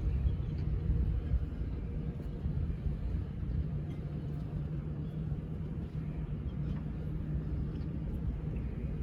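Boat engine running, a steady low rumble with a faint steady hum over it.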